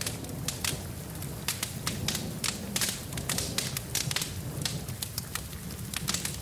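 Wood fire in a fireplace crackling, with many sharp pops a second over a steady low rumble, and rain falling underneath.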